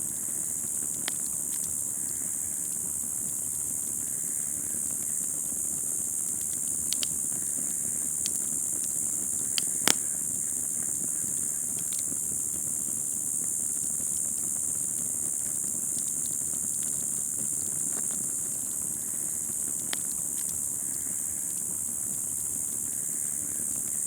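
Wood fire burning in a metal fire pit, with scattered sharp crackles and pops, the loudest about ten seconds in and again near twenty, over a steady high hiss.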